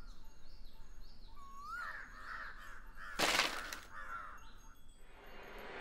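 Crows cawing a few times, and about three seconds in a loud, brief clatter of a bundle of dry firewood sticks being dropped on the ground.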